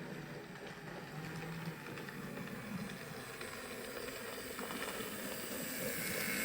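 Steady train running sound, a hissing rumble with a few faint clicks, growing slightly louder toward the end.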